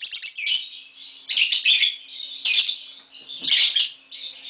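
Pet lovebirds chirping in short bursts of rapid, high chirps, about one burst every second.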